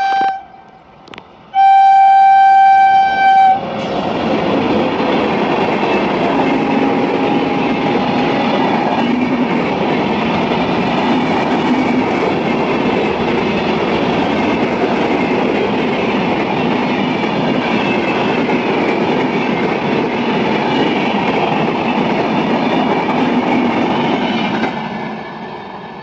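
Indian Railways locomotive horn: a short toot, then a blast of about two seconds. The train then passes with a steady noise of wheels and coaches for about twenty seconds, fading away near the end.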